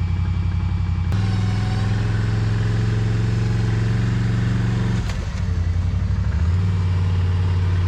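ATV engine held at raised revs under load, stepping up about a second in and dropping back near five seconds, as the quad labours to climb out of a pit where it had got stuck.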